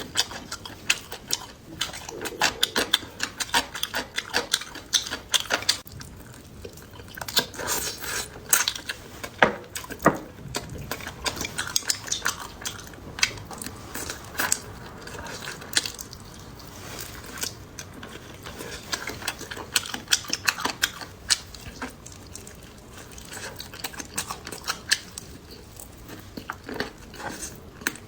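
Eating utensils clicking and clinking against bowls and dishes during a meal, in many short, irregular taps.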